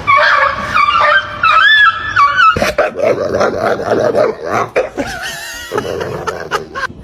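A dog whining and yipping, with high-pitched wavering cries in the first couple of seconds, then lower, rougher vocalising.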